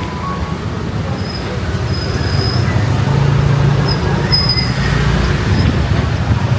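Street traffic noise: a low rumble that swells in the middle as a motor vehicle passes close by, its engine tone rising and then falling away.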